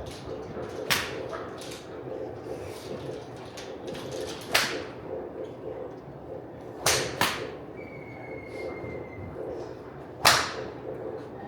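Golf clubs striking balls: five sharp cracks, two of them close together, over steady background noise.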